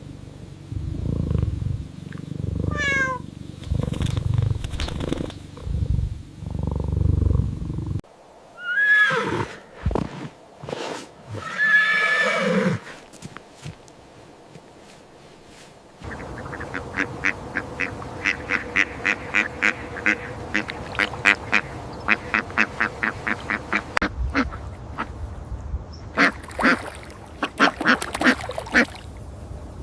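A series of different animal calls, switching abruptly to a new animal about every eight seconds. A few seconds past the middle comes a fast, even run of short calls, about four a second.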